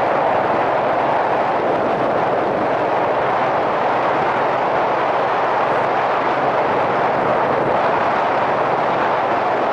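Wind rushing over a helmet-mounted microphone on a moving Yamaha SRX400 motorcycle, with its single-cylinder engine running underneath at a steady pace.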